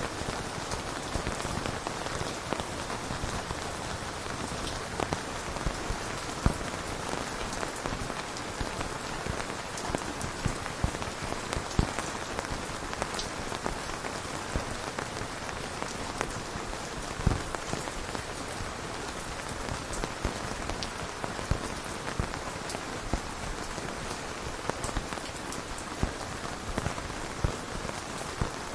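Steady rain falling on a hard surface, with many separate drops ticking sharply through the even hiss.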